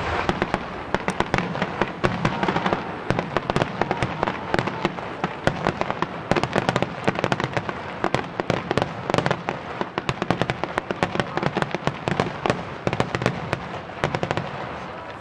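Japanese starmine fireworks barrage: aerial shells bursting in rapid succession, a dense unbroken run of booms and crackling.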